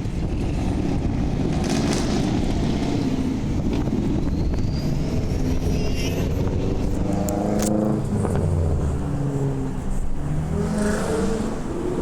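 Car engine running with a steady low rumble, revved up and down twice in the second half.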